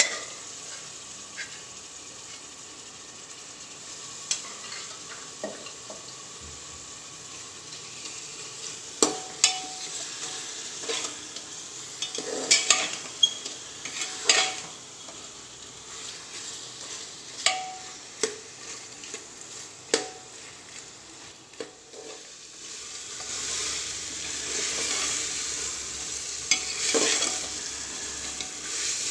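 Mutton and masala paste sizzling in an aluminium pressure cooker while a steel ladle stirs them, scraping and knocking against the pot. The knocks begin about nine seconds in, and the sizzle grows louder near the end.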